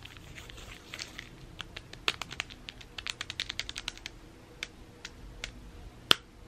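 Light, sharp clicks and taps of hands and utensils working with food: a few at first, a quick run of them for about two seconds in the middle, then a few single louder clicks near the end.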